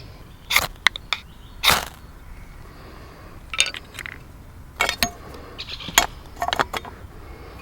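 Metal camp gear being handled: a series of sharp metallic clinks and a few short scrapes at irregular intervals.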